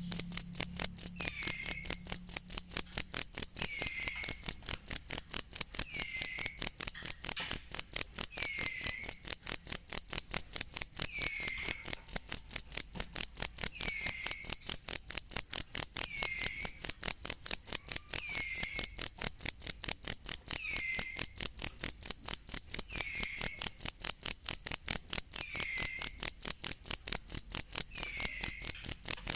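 Field cricket chirping steadily in an even, high-pitched rhythm of about three chirps a second.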